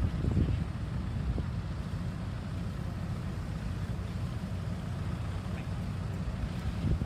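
Diesel engine of a CAT 320 GC hydraulic excavator running steadily with a low rumble, with a couple of light knocks in the first second or so.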